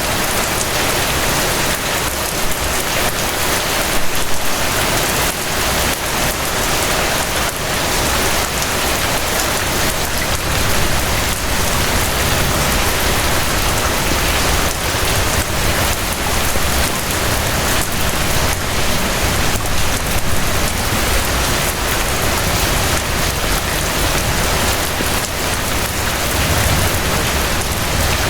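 Steady rain falling, a dense, even patter of drops over a low rumble.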